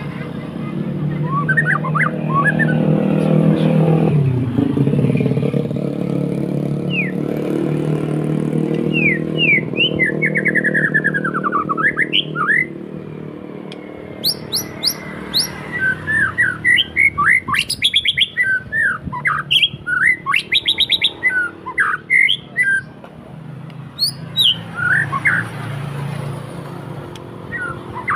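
White-rumped shama (murai batu) singing in full voice, a varied song of clear whistles, rising and falling glides and fast runs of repeated notes. For about the first twelve seconds a motor vehicle's engine runs under it, the loudest sound there, dipping in pitch about four seconds in before fading out.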